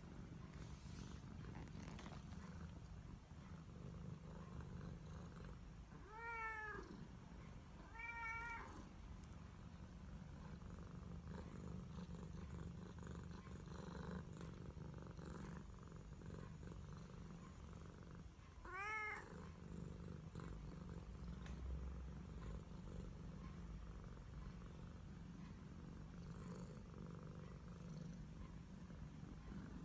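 House cat purring steadily, a low continuous purr, broken by three short meows, two close together about six and eight seconds in and one more about nineteen seconds in.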